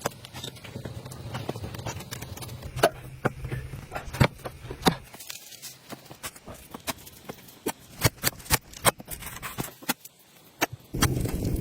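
A series of sharp, irregular knocks and clicks, coming faster in the second half, over a faint low hum that stops about five seconds in.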